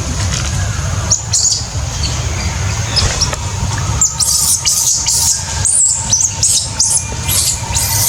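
Baby monkey giving short, shrill squealing cries, a few about a second in and then coming quickly one after another through the second half, over a steady low rumble.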